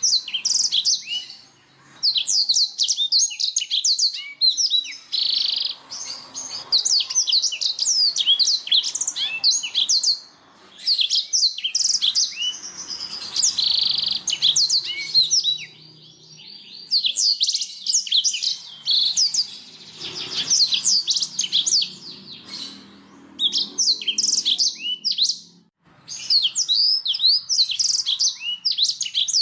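Canary singing: long phrases of rapid, high, downward-sweeping chirps and trills, broken by a few short pauses.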